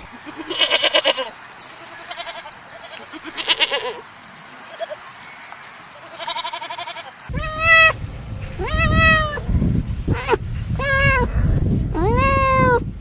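Goats bleating. First come three trembling, quavering bleats spaced a few seconds apart. Then, after a sudden change in the recording, about five clearer bleats rise and fall in pitch over a low rumbling background noise.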